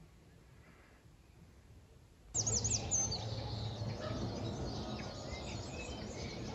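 Near silence for about two seconds, then outdoor ambience starts suddenly: birds chirping, beginning with a quick run of high chirps, over a steady background hiss and low hum.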